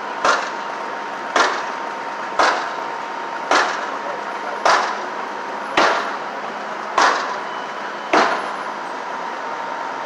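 Firefighters hacking at a garbage truck's load with a hand tool: eight heavy strikes, about one a second, over a steady background hum. The load is being broken open to check for hidden fire.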